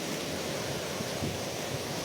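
Steady sea sound: surf washing in an even, continuous rush with no distinct wave breaks.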